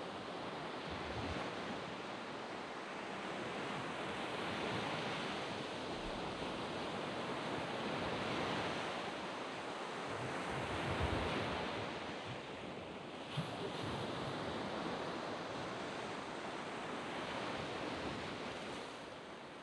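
Surf washing onto a sand beach, the rush of the waves swelling and easing every few seconds, with some wind on the microphone. A brief sharp click about two-thirds of the way through.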